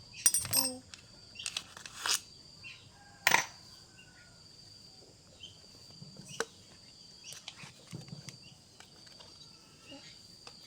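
A few sharp clicks and knocks, the loudest just after the start and about three seconds in, over a steady high-pitched insect drone.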